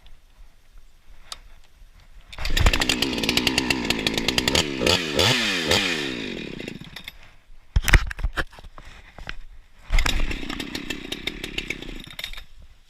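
Two-stroke Husqvarna 394XP chainsaw starting about two and a half seconds in and revving, its pitch sweeping down and up, then dying away. A few sharp knocks follow, then it starts again about ten seconds in and runs lower before cutting out at the end. The saw won't hold an idle.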